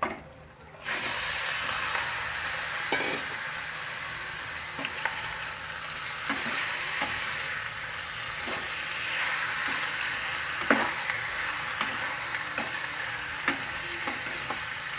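Yogurt-and-spice-marinated chicken sizzling as it goes into hot oil in a kadai. The sizzle starts under a second in and holds steady. A ladle clinks and scrapes against the pan as it is stirred.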